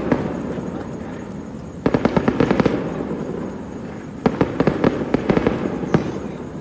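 Fireworks going off in two dense bursts of rapid crackling bangs, each lasting about a second, the first about two seconds in and the second about four seconds in.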